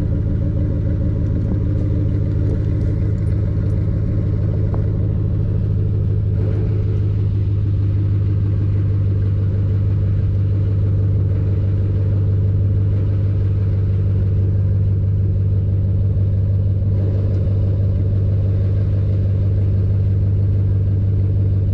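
Chevrolet Silverado pickup with an MBRP aftermarket exhaust idling steadily just after a cold start, a deep, even exhaust rumble.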